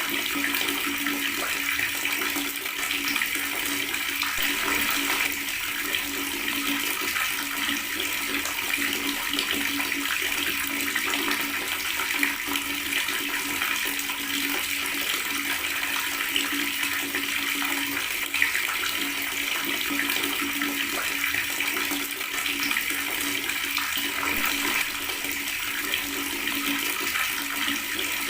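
Water tap running with a steady gurgle.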